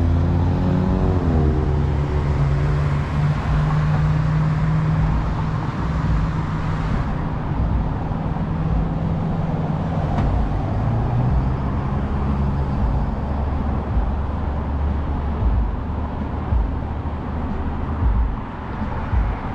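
Road traffic, with car engines and tyres running steadily. Just at the start an engine revs up, rising in pitch, and a steady engine hum holds for the first several seconds.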